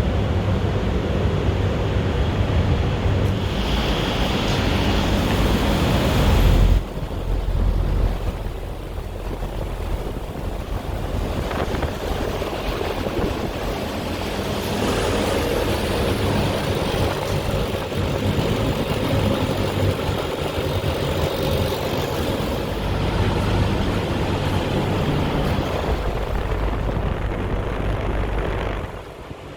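A noisy York YKDA 48 air-conditioning unit running with a steady low hum, followed near the end by a Fuji Aire air-conditioning unit running. The sound changes abruptly about seven seconds in and again about two-thirds of the way through.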